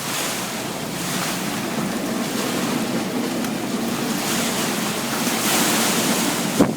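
Severe thunderstorm wind blowing hard across the microphone in a steady rush that swells about five seconds in. A brief sharp knock comes near the end.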